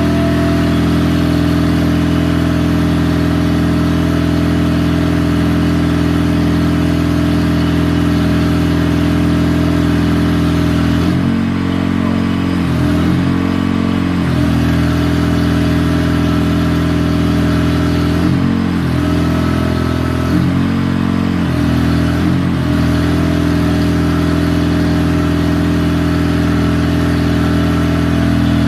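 Truck engine running steadily, with a few brief shifts in pitch as its speed changes, around a third of the way in and again past the middle.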